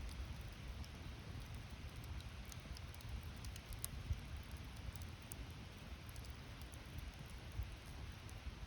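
Campfire burning with sparse small crackles and pops over a low, unsteady rumble.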